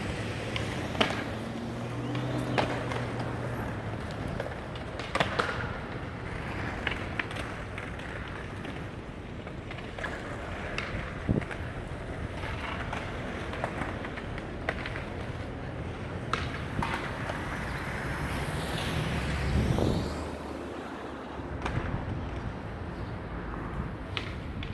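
City street noise: a steady hum of traffic with scattered sharp clicks and knocks, and something louder passing by about nineteen seconds in.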